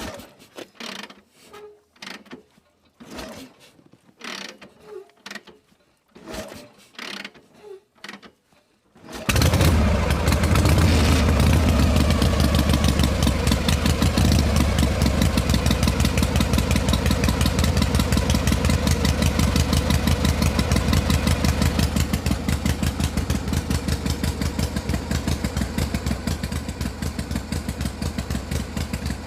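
A few light clicks and knocks, then about nine seconds in the small engine of a home-built mini tractor starts abruptly and runs steadily with a fast, even firing beat.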